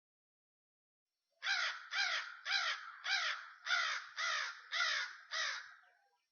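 Crow cawing: a quick run of about eight harsh caws, each falling in pitch, starting about a second and a half in.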